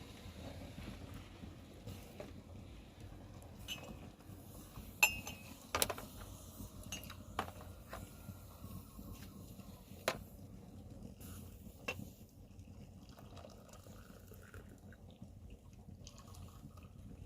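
Scattered clinks and knocks of kitchenware, irregular and a few seconds apart, the sharpest about a third of the way in with a short metallic ring, over a low steady background noise.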